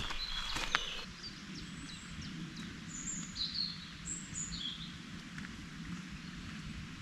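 Small birds chirping in short high phrases over a steady low background noise, with a couple of footsteps in the first second.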